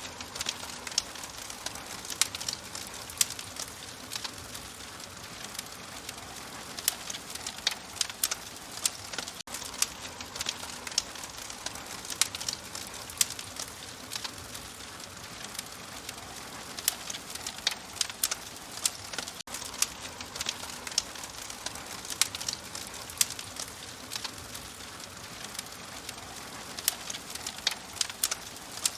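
Wood fire crackling in a fireplace: a steady hiss full of frequent sharp pops and snaps, broken by two split-second dropouts about a third and two thirds of the way through.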